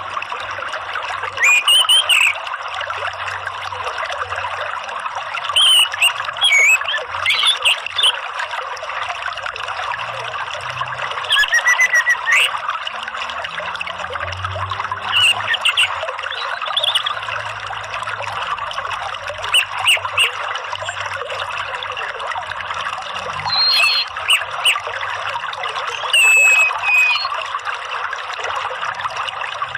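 Steady trickling, running water with short phrases of orange-headed thrush (anis merah) song breaking in every few seconds, each a quick set of high sweeping notes. It is a lure track meant to set a caged anis merah singing.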